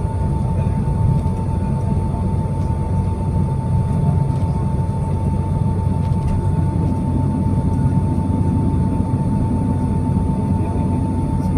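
Boeing 767 cabin noise: the jet engines running with a steady low rumble and a constant high whine held at one pitch.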